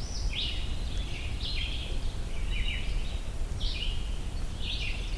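A songbird singing short, high phrases about once a second, each a quick run of down-slurred notes, over a steady low background rumble.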